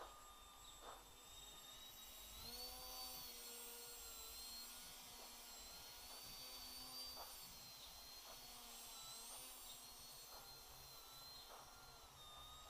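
Faint high-pitched whine of an FPV quadcopter's brushless motors. The pitch jumps up about two and a half seconds in, then rises and dips with the throttle.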